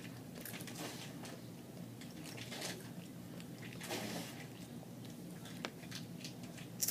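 People crunching and chewing crispy homemade microwaved potato chips, a series of short crackly crunches.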